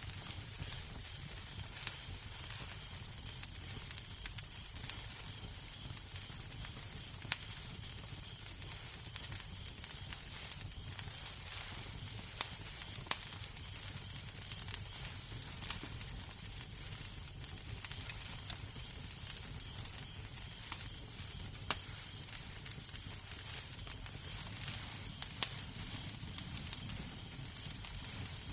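Wood fire crackling in a fireplace: a steady hiss over a low rumble, with frequent, irregular sharp pops and snaps.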